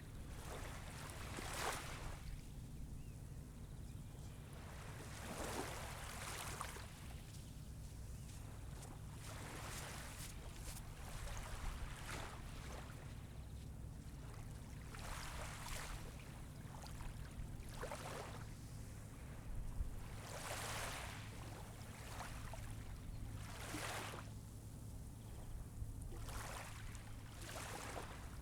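Small waves breaking and washing up the beach shore, a soft rush of surf every few seconds over a steady low rumble.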